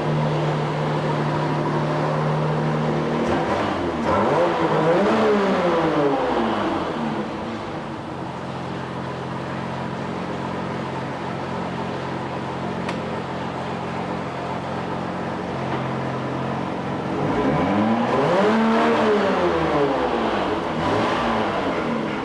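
1998 Volvo Penta 4.3 L GL V6 Vortec sterndrive engine running at idle. It is revved up and let fall back twice, each rise and fall taking about three seconds.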